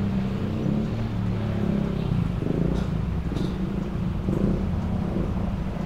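Car engine idling, a steady low hum heard from inside the stationary car's cabin, with a few faint clicks about halfway through.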